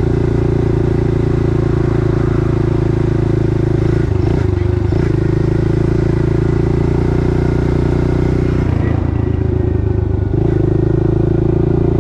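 Small four-stroke pit bike engine running steadily under throttle while riding. It eases off briefly about four seconds in and again about nine seconds in, then picks back up.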